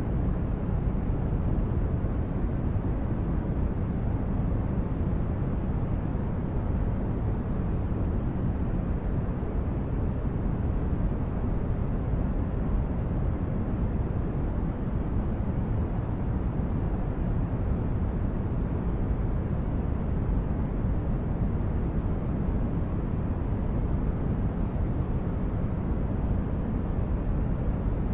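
Sci-fi spaceship interior ambience: a steady, deep rumbling noise like brown noise, with no tones or events and no change throughout.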